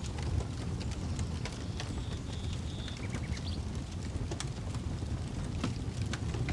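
Wood campfire crackling, with irregular sharp pops scattered throughout, over a steady low rumble from wind on the microphone.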